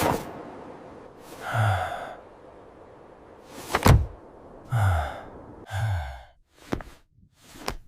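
A low voice gives three short, falling sighs or groans, with a sharp thud about four seconds in and a few light knocks near the end.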